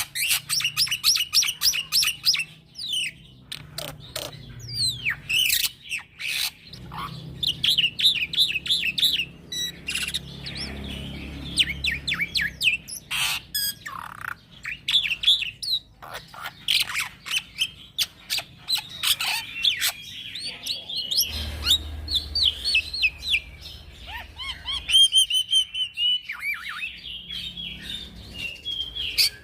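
Young black-winged starling (jalak putih) singing non-stop, one rapid run of chirps, trills and sharp clicking notes after another with only brief pauses: the lively continuous 'ngeroll' singing that keepers play as a tutor and lure for starlings.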